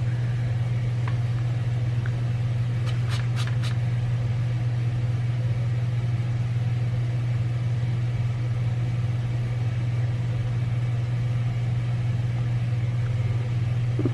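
Steady low hum of laundry machines running in the background, even throughout, with a few light clicks about three seconds in.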